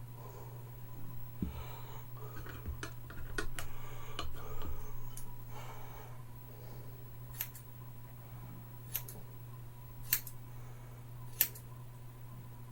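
Scissors snipping through long hair: a run of quick cuts and rustling in the first few seconds, then four single snips spaced about a second apart near the end. The scissors are not very sharp.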